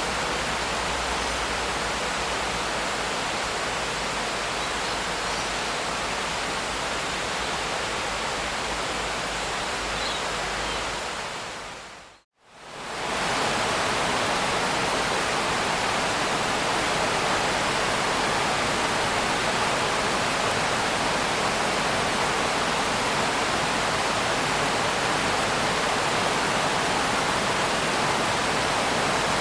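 Steady, even hiss of rain. About twelve seconds in it fades out to silence for a moment and fades back in, as at the join of a looped track; afterwards it has less low rumble.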